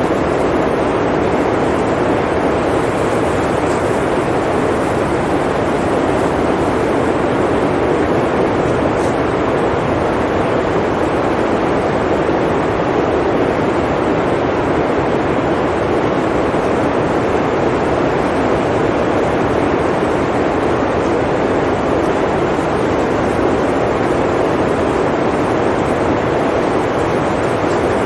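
Blizzard wind: an even, steady rushing noise with no gusts or breaks.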